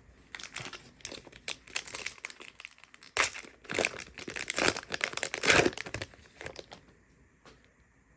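Plastic wrapper of a trading-card pack crinkling and tearing as it is opened by hand, a run of irregular crackles and rips that stops about seven seconds in.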